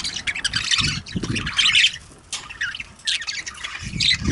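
A flock of budgerigars chattering, a dense mix of rapid warbles, chirps and squawks.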